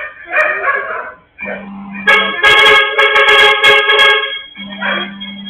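A vehicle horn, most likely the garbage truck's, blown in one steady blast of about two seconds.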